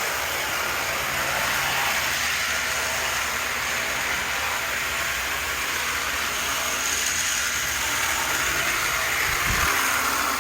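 Model trains running on plastic Bachmann E-Z Track: a steady whir of small locomotive motors and wheels rolling over the rails.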